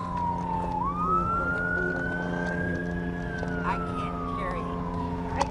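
Emergency vehicle siren wailing, slowly falling, rising and falling again in pitch, over a steady low hum.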